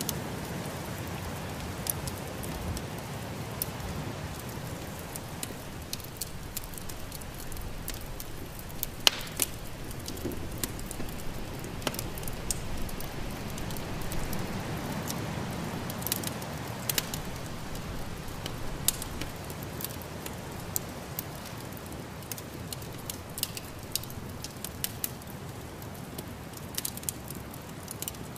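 Wood fire in a fireplace crackling, with scattered sharp pops over a steady low rumbling noise; one pop about nine seconds in is louder than the rest.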